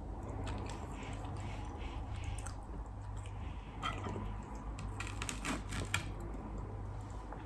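A person chewing food close to the microphone, with short wet mouth clicks scattered through, over a steady low hum.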